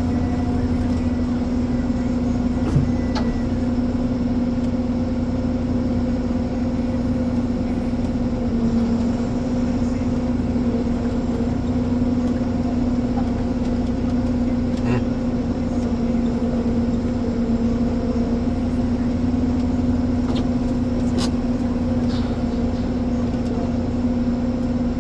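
Ponsse Elephant forwarder's diesel engine running steadily with an even hum, with a few light clicks or knocks now and then.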